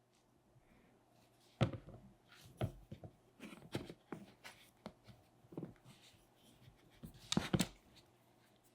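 Hands working and handling clay: an irregular series of soft taps, knocks and rubs, loudest about a second and a half in and again about seven seconds in.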